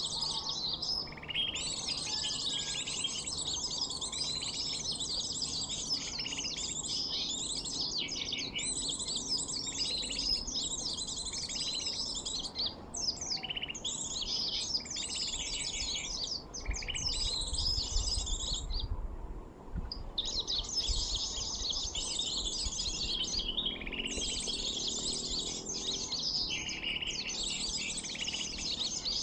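A birdsong lure recording of small birds, typically sunbirds, played to draw them in: a rapid, nearly unbroken stream of high chirps and twitters, with short breaks about 12 and 19 seconds in.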